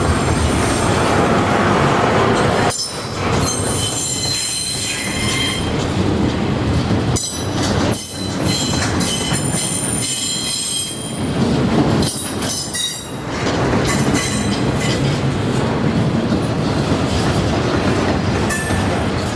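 Norfolk Southern freight train's cars rolling past, steel wheels squealing in several high tones that come and go over a steady rail rumble.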